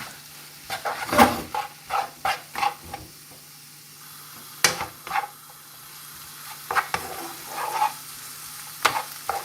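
Thin chicken slices and onions frying in a pan with spices, sizzling quietly, while a utensil is stirred through them, scraping and knocking against the pan at irregular moments.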